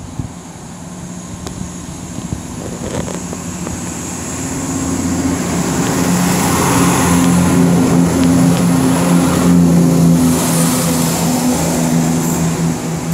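CrossCountry Turbostar diesel multiple unit departing, its underfloor diesel engines running under power with a steady drone that grows louder as it accelerates away, loudest around eight to ten seconds in.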